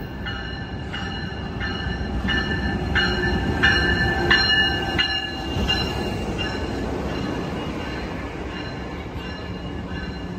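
Amtrak Siemens SC44 Charger locomotive and its passenger cars rolling past close by, with a steady low rumble of wheels on the rails. A ringing, regular strike about one and a half times a second, most likely the locomotive's bell, runs over it until about six seconds in, then only the rolling of the cars goes on.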